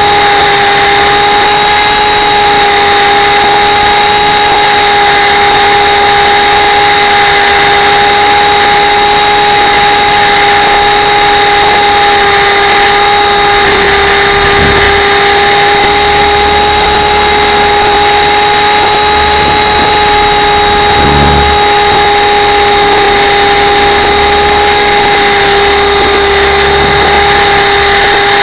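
RC camera helicopter's motor and rotors whining loudly and steadily, heard from the camera mounted on the helicopter itself, with a few brief low rumbles about halfway through and again later.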